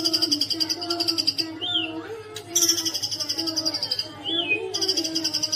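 White-rumped shama singing its 'tembakan' song: three rapid-fire, high trilling phrases of about a second and a half each, each closed by a short down-up note. A lower, wavering tone runs underneath.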